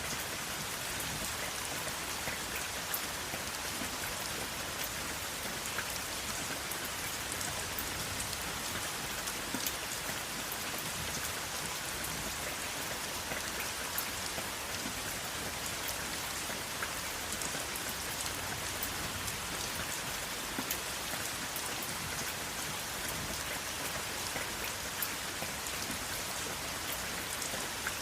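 Steady rain falling, an even hiss with scattered sharper drop ticks and no thunder.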